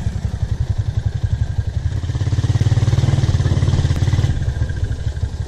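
Motorcycle engine running with a fast, even pulsing beat, growing louder for about two seconds in the middle.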